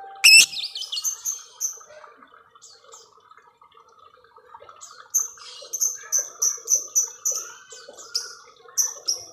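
Lovebird calling: a loud squawk about a third of a second in, then from about halfway a quick run of short, high, sharp chirps, roughly three a second, over a steady low chatter.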